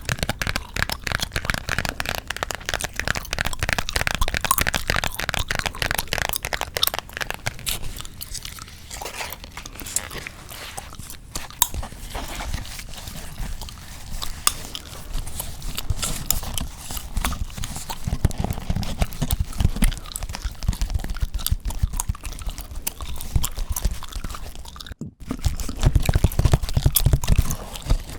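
Close-miked gum chewing: a dense, continuous stream of fast mouth clicks and smacks. It cuts out for an instant about 25 seconds in.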